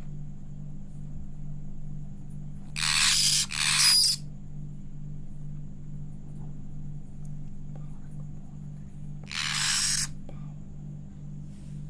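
Hand-fed conure chicks giving short, raspy food-begging calls: two back to back about three seconds in and another about nine seconds in, over a steady low hum.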